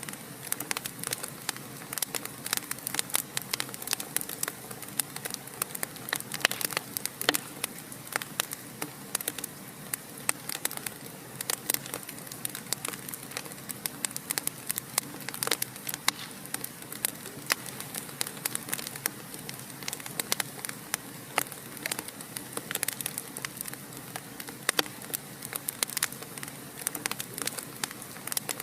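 Wood fire in a fireplace crackling: many sharp, irregular pops and snaps over a steady soft hiss of burning.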